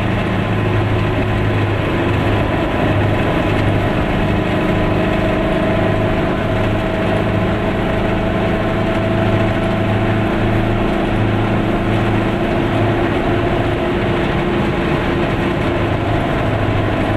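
Goggomobil's small two-stroke twin-cylinder engine running steadily at cruising speed, with tyre and road noise, heard from inside the car.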